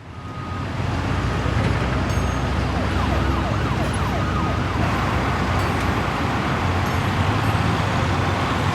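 City traffic noise with a steady low rumble, fading in at the start, and an emergency vehicle's siren sounding for a couple of seconds around the middle.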